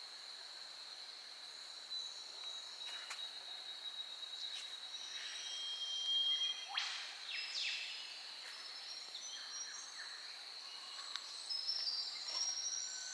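A steady high insect drone with scattered bird calls over it. There are two fast upward-sweeping calls about seven seconds in, and a run of short chirps near the end.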